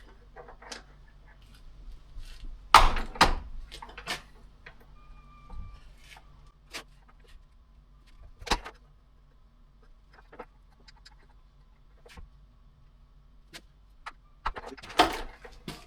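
Scattered metal clanks and clicks as chainsaw chain and a chain-working tool are handled and pressed, with the loudest knocks about three seconds in, near the middle and near the end. The tool is failing to cut through the chain, and the owner suspects it is worn out.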